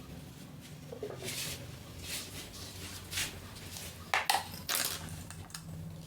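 Kitchen handling noises: scattered clatters, knocks and scrapes of dishes or utensils, the loudest two about four seconds in, over a low steady hum.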